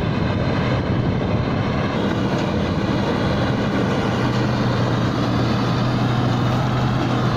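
Thai Seng rice combine harvester's engine running steadily under load as it harvests through deep mud, a constant low hum with a mechanical clatter over it.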